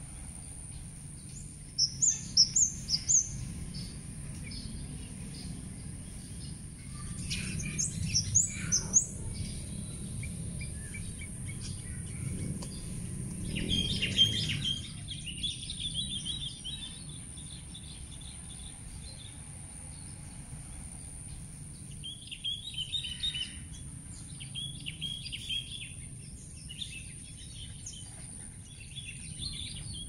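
Songbirds chirping in short bursts of quick, high calls: a brief rapid series about two seconds in, more around eight and thirteen seconds, and repeated chirp groups near the end. A steady high-pitched hiss and a low outdoor rumble run underneath.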